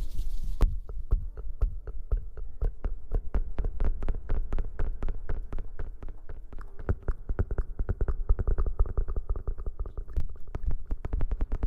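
Soft, rapid taps and thuds close on a sensitive ASMR microphone, several a second, with a heavy low thump in each.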